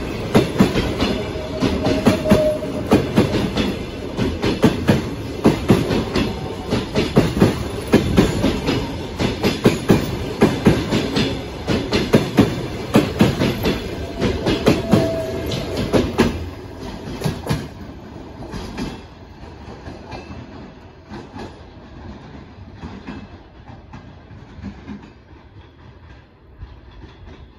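Passenger train coaches rolling past at speed, their wheels clicking over the rail joints in a quick, dense rhythm. The clatter drops off sharply as the last coach goes by about sixteen seconds in, then fades as the train draws away.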